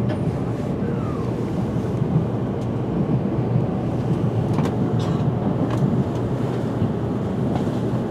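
Interior of a Tokaido Shinkansen carriage rolling into a station platform: a steady low rumble with a few faint clicks.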